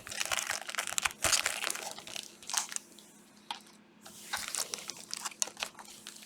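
Trading-card pack wrappers crinkling as the packs are handled, in crackly spells with a lull about three seconds in.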